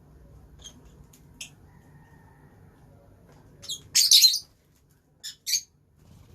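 Lovebirds calling: a few short, high chirps, then a loud, harsh squawk about four seconds in, followed by two quick chirps.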